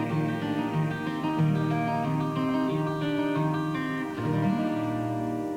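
Acoustic guitars playing the closing instrumental bars of a folk song, plucked notes over sustained chords.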